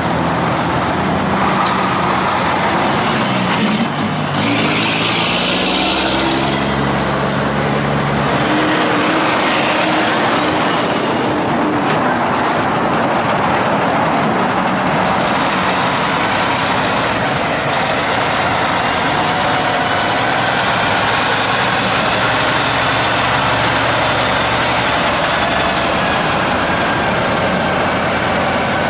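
Semi-trucks passing on a highway: diesel engines and tyre noise, with a burst of hissing about four to seven seconds in and a thin high whine in the second half.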